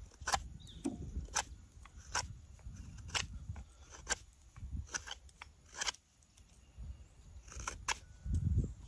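Knife shaving walnut wood: crisp slicing cuts, about one a second, with low handling rumble between them.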